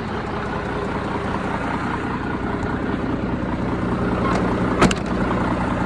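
Scania 113 H 360's straight-six diesel engine running steadily at low revs, with one brief sharp sound near the end.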